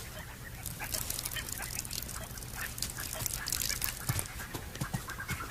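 African wild dogs giving rapid, high, bird-like twittering and chirping calls, with a steady low hum underneath.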